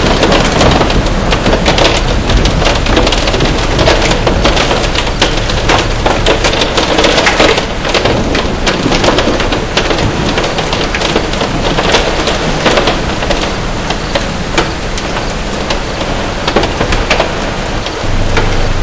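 Heavy rain and hail striking a car: a dense hiss of rain with many sharp ticks of hailstones hitting the vehicle.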